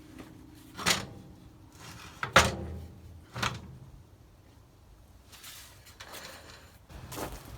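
Three sharp knocks or clunks about a second apart, the middle one loudest, then softer scraping and one more knock near the end.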